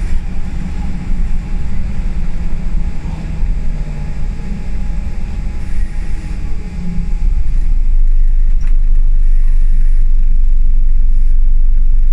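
Scania L94UB single-deck bus heard from inside, its diesel engine running with a low rumble and road noise. About eight seconds in, the rumble becomes steadier and a little louder.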